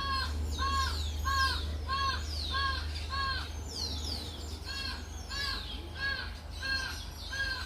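A bird calling over and over in short, evenly spaced calls, six in a row, a brief pause, then five more, with another bird's thin falling whistles higher up.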